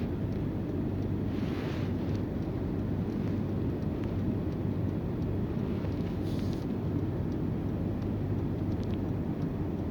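A vehicle engine running steadily with a constant low hum, with brief hissing swells twice, about a second and a half in and again near six and a half seconds.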